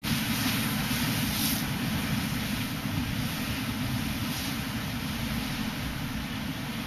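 Strong wind buffeting the microphone in a steady low rumble, over the hiss of a rough sea breaking against a harbour breakwater, which swells briefly twice.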